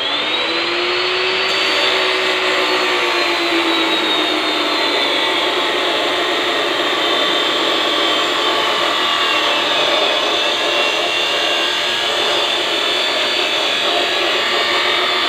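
Electric power tool motor spinning up with a quickly rising whine, then running steadily with a loud rushing hiss under the high whine, which wavers slightly in pitch.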